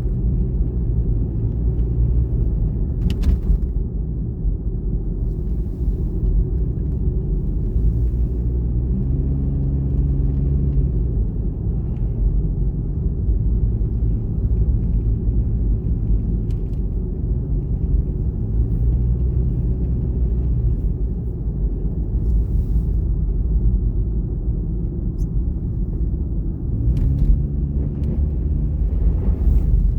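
Car driving on a winter road: a steady low rumble of tyres and engine. An engine hum comes up twice, about a third of the way in and near the end, with a few short clicks.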